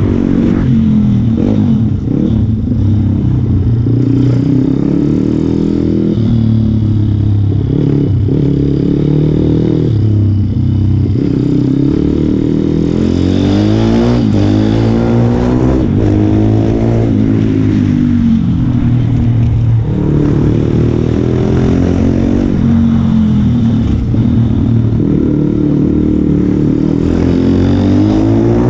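Motorcycle engine heard onboard during a fast lap, its revs climbing and dropping again every few seconds as it accelerates along the short straights and slows for the tight corners.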